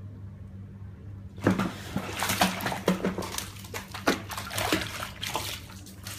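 Water splashing and sloshing irregularly, starting about a second and a half in, over a low steady hum.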